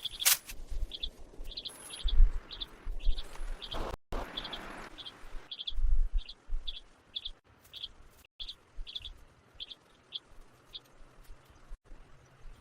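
A bird repeating a short, high chirp about twice a second, with a couple of low thuds and some rustling around it.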